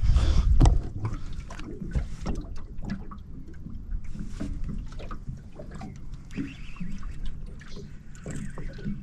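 Wind buffeting the microphone for about the first second, then water lapping and scattered small knocks and clicks on a small fishing boat.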